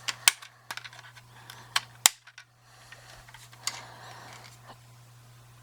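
Sharp clicks and taps of a plastic toy airliner being handled, about half a dozen in the first two seconds, the loudest about two seconds in, then a few fainter ones, over a faint steady low hum.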